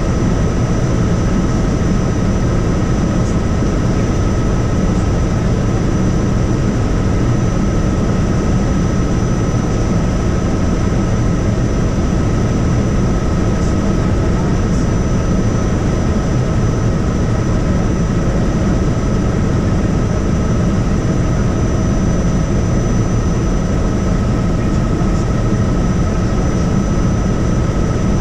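Helicopter in flight: a steady, loud drone of rotor and engine noise with a constant high-pitched whine over it.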